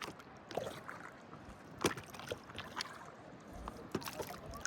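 Lake water lapping and splashing close by, with irregular small splashes and clicks.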